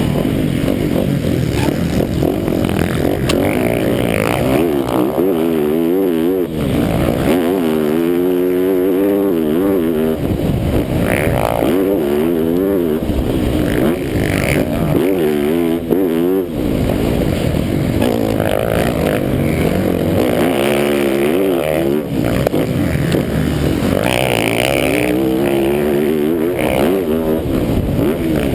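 MX1 motocross bike's engine racing on a sand track, the revs climbing hard and dropping off again every couple of seconds as the rider opens and shuts the throttle.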